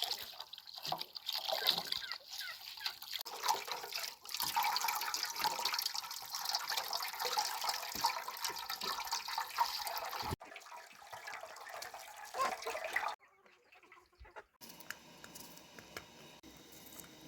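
Water trickling and splashing, with small drips and clicks. It stops abruptly after about ten seconds, and a quieter stretch follows with a brief near-silent gap.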